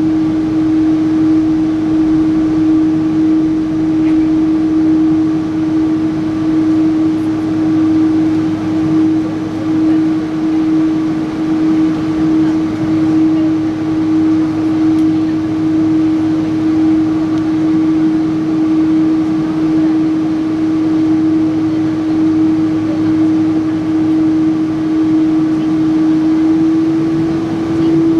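Boeing 777-300's jet engines heard from inside the cabin, running steadily with a strong steady hum and an underlying rumble, edging up slightly in pitch near the end.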